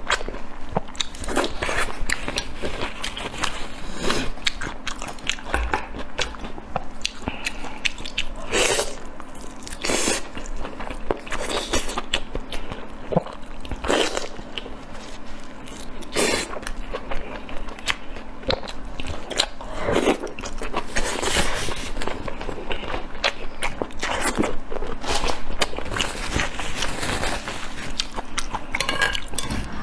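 A person eating close to the microphone, chewing and biting with many small wet clicks and louder bites every second or two.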